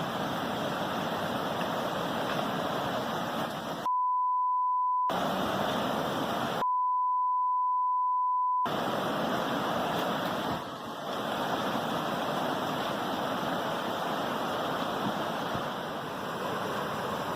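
Steady rush of floodwater pouring from a collapsed dam. The sound is twice replaced by a flat, high censor bleep: once about four seconds in for about a second, then again for about two seconds.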